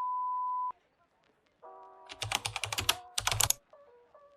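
A steady single-pitch beep cuts off suddenly under a second in. After it comes a keyboard-typing sound effect: two quick runs of rapid clicks over background music.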